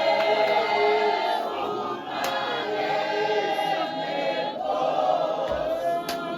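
A choir of many voices singing together in harmony.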